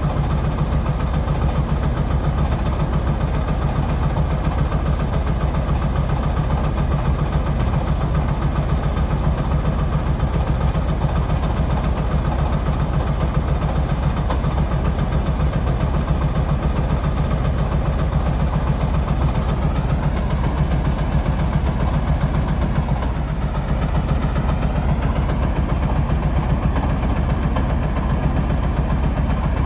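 Caterpillar 345B L excavator's diesel engine running steadily, with a faint higher whine rising in pitch from about two-thirds of the way in.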